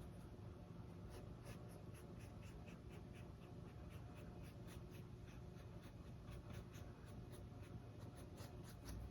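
Faint, quick strokes of a long round paintbrush dragging acrylic paint across a stretched canvas, about three short strokes a second.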